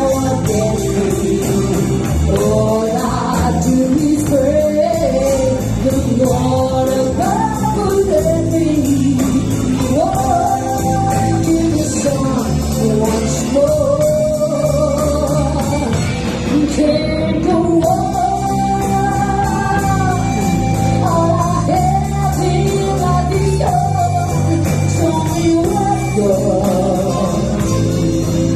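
Live blues band playing, with a singer's voice carrying the melody over electric guitar and the rest of the band.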